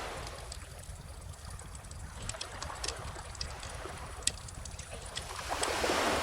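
Wood fire crackling with scattered sharp pops, over calm ocean waves washing in; a wave swells up and breaks near the end.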